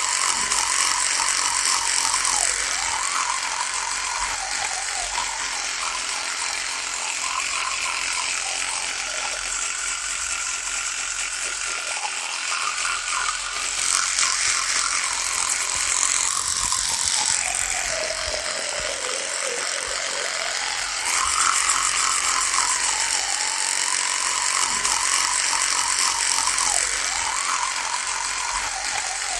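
Electric toothbrush running with a steady buzz whose pitch sags and recovers every few seconds, dropping furthest about two-thirds of the way through.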